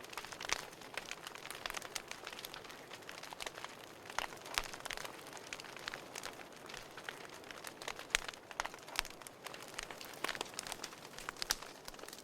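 Burning firewood crackling: many irregular sharp pops and snaps over a steady soft hiss.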